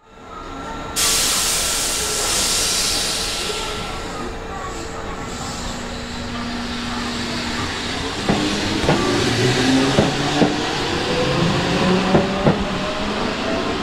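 Keihan commuter train at a station platform: a sudden loud hiss of compressed air about a second in, slowly fading. About two-thirds of the way through the train starts to pull away, with a rising motor whine and wheels clicking over rail joints.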